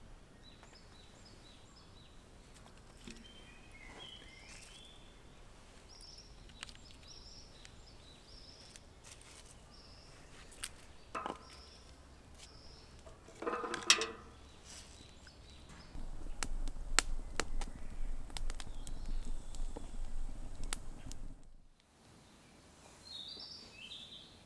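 Small birds chirping in short repeated calls, over a few clicks and knocks, the loudest about halfway through. Later comes several seconds of rough, steady noise that cuts off suddenly.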